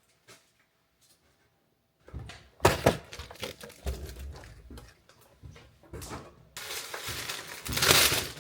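Handling noises as snacks are gathered: a quiet start, then knocks and clatter of items, with one sharp knock about three seconds in, and a louder stretch of rustling near the end.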